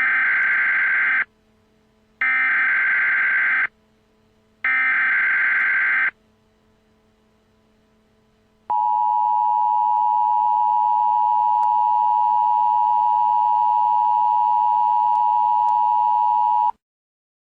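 Emergency Alert System signal: three identical bursts of the SAME digital header's warbling data tones, followed by the steady two-tone attention signal, held for about eight seconds and then cut off sharply.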